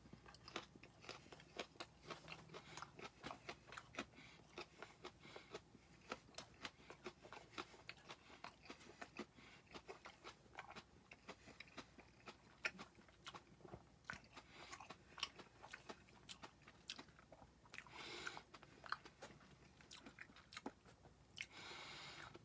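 Faint close-up chewing of a whole raw habanero pepper: many small, irregular wet crunches and clicks. There are two short hissing sounds, one late on and one just before the end.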